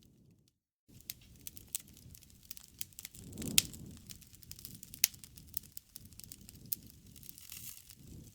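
Wood campfire crackling and popping over a low rumble of flames, with a few sharper pops, the loudest about halfway through. The sound drops out completely for a moment just under a second in.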